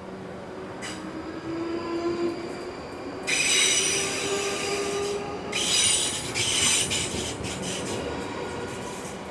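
Electric multiple-unit train moving along the rails with a faint rising motor hum, then two loud spells of high-pitched wheel squeal, about three and six seconds in.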